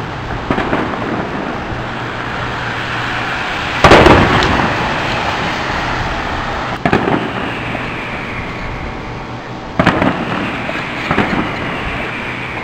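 Fireworks shells bursting in the sky: a series of sudden booms over steady background noise. The loudest boom comes about four seconds in, and others follow near seven, ten and eleven seconds.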